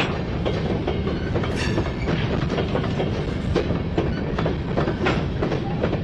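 Freight train cars rolling past, their wheels clacking irregularly over rail joints over a steady rumble.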